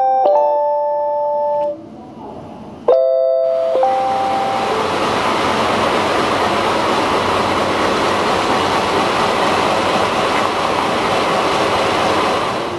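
A melodic electronic chime of clear bell-like tones, breaking off about two seconds in, with a short chime phrase again about three seconds in. Steady train noise follows, an even dense rush that holds to the end.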